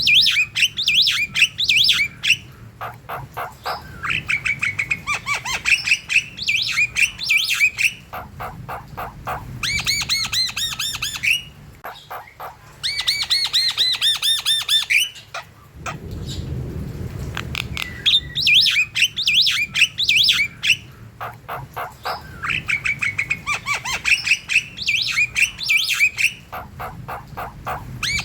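Javan myna (jalak kebo) in full, continuous song: fast runs of repeated chattering notes mixed with harsh squawking calls, in phrases with only short gaps between them. This is a bird singing actively (gacor), the kind of recording used as a lure to set other jalak kebo singing.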